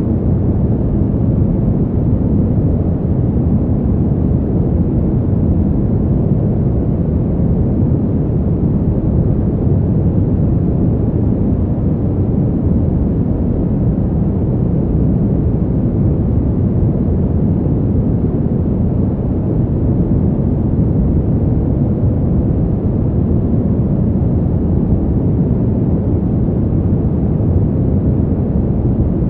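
Steady, deep winter wind noise, even and unbroken, without gusts or breaks.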